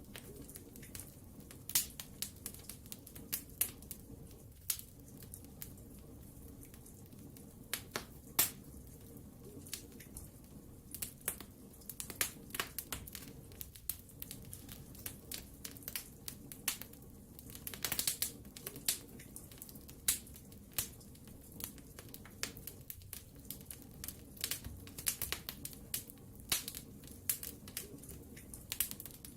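Wood fire in a fireplace crackling: irregular sharp pops and snaps, some in quick clusters, over a low steady rush.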